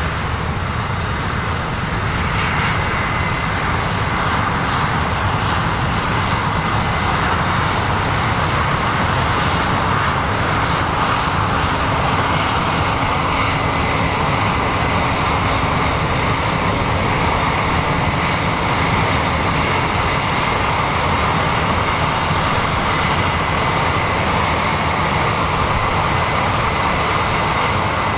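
Heavy farm machinery running steadily in a corn field, a constant engine and machine noise with a low rumble that holds level throughout.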